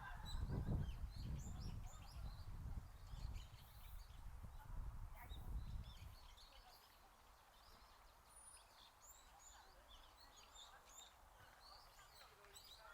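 Small birds chirping with many short, high calls throughout, over a low rumble that fades out about six seconds in.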